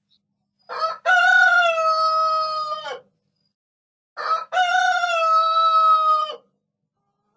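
Rooster crowing twice, each crow a short opening note followed by a long held note, with a pause of about a second between the two.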